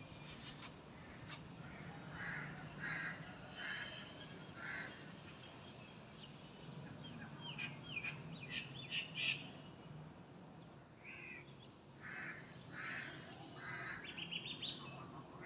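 Birds calling: short, rough calls repeated about once a second, with a quicker run of chirps in the middle, over a faint low background hum.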